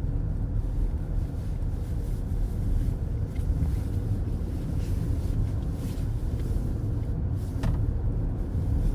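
Steady low road rumble of a car driving at highway speed, tyre and engine noise heard from inside the cabin.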